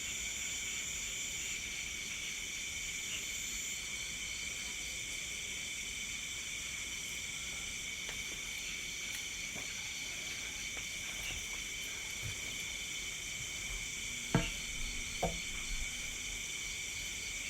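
Night chorus of crickets and other insects: several steady high-pitched trills layered together, one of them pulsing rapidly. Near the end come two short knocks.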